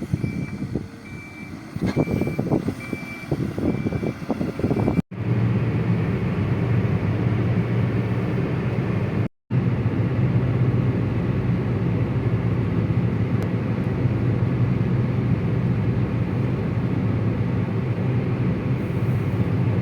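A heavy earthmoving machine's reversing alarm beeps steadily, over metallic clanks and knocks from the machine working. After a couple of abrupt cuts, its engine runs with a steady, loud drone.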